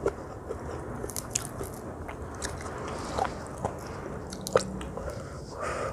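Close-miked chewing and crunching of crisp fried catfish, with scattered sharp crackles and a few louder snaps.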